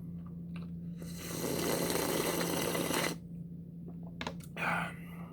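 A person slurping the brine from an opened can of herring fillets in one long draw of about two seconds, followed by a few faint short sounds.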